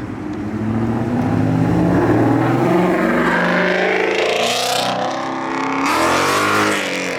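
Ford Mustang accelerating hard, its engine note climbing steadily, breaking off about five seconds in, then climbing again and dropping away near the end as it passes.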